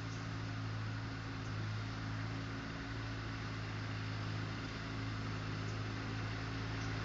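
Tractor mower engine running at a steady speed: an even low hum with a hiss over it.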